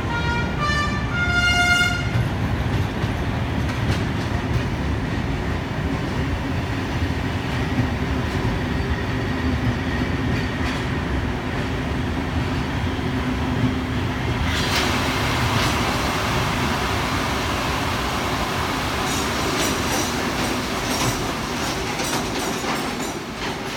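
Wooden passenger coaches of a steam train roll slowly past with a steady low rumble of wheels on rails. A brief run of stepped tones opens it, and about halfway through a steady loud hiss sets in and carries on, with a few faint knocks near the end.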